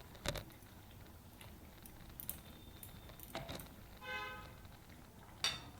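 Faint, sparse clinks and knocks of a spoon working a pot of simmering curry, three light strikes. About four seconds in comes a short, high-pitched toot.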